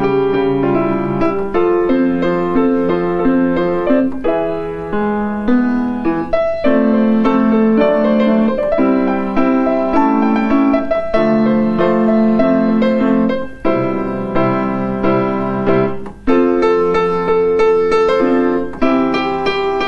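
Solo piano playing a slow melody over sustained chords. The music dips briefly twice in the second half, between phrases.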